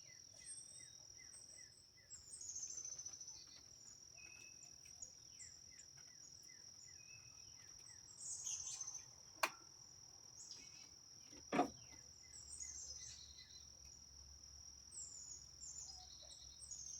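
Outdoor ambience: a steady high insect trill with birds chirping on and off, and two short sharp knocks near the middle.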